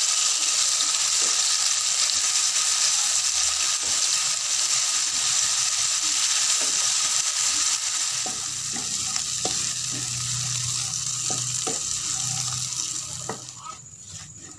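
Chili and shallot spice paste sizzling in hot oil in a non-stick frying pan while a wooden spatula stirs it, sautéed until fragrant. The sizzle eases about eight seconds in and dies down near the end, leaving the spatula's scrapes and taps on the pan.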